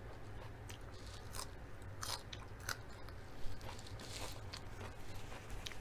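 Close-up crunching and chewing of raw salad greens: a string of crisp bites and chews, with one louder crunch a little past the middle.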